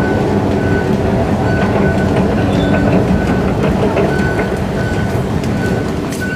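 Singapore MRT train running, a steady rumble with a thin high tone that comes and goes, easing off slightly near the end.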